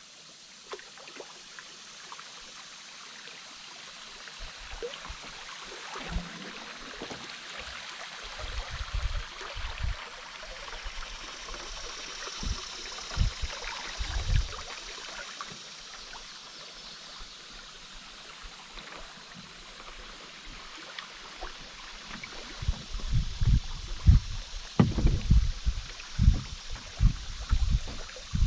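River water flowing and rippling steadily around a canoe, with irregular low thumps and knocks that come in clusters, thickest in the last several seconds.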